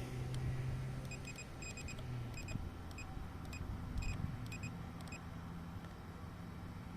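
Short electronic beeps in quick clusters, repeating for about four seconds over a low steady hum: typical warning beeps from a drone's remote controller.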